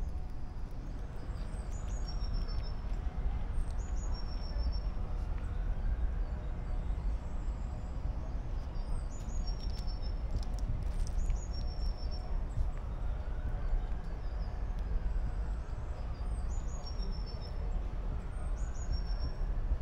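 A songbird sings short, high phrases about three times, each a few quick notes falling in pitch followed by a brief trill, over a steady low outdoor rumble.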